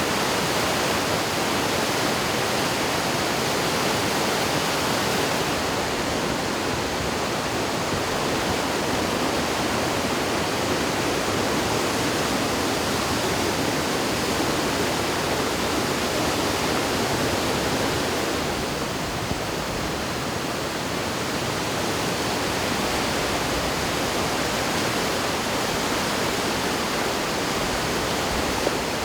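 Steady rushing roar of a river in flood, running high and fast after typhoon rain.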